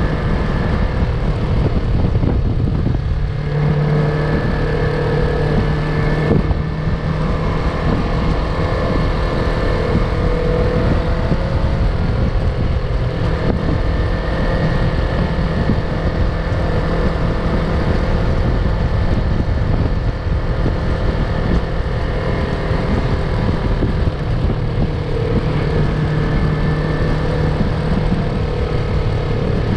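Yamaha MT-03 motorcycle engine running at a steady cruising pace, heard from the rider's position with wind rumbling across the microphone. The engine note holds mostly even, shifting slightly a few seconds in and again near the end.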